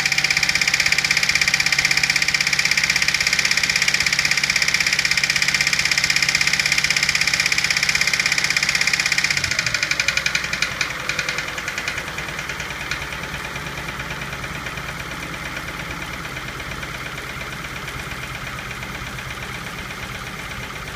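1991 Dodge Stealth's 3.0-litre V6 running with a rhythmic knock from inside the engine. About halfway through the sound drops to a quieter, lower steady run.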